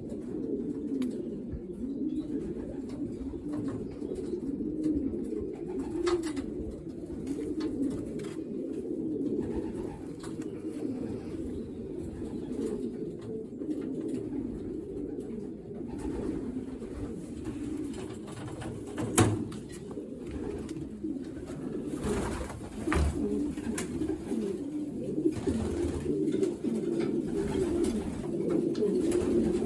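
Racing pigeons cooing continuously in a loft, many birds at once in a dense low murmur. A sharp click or knock stands out about two-thirds of the way through, with a few fainter ones after it.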